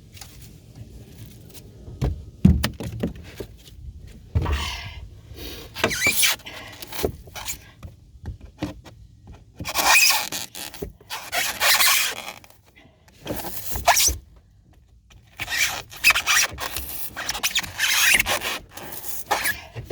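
Old pour-in flotation foam being pried and scraped out of a boat hull: repeated squeaky rubbing and scraping strokes, with a few knocks in the first few seconds.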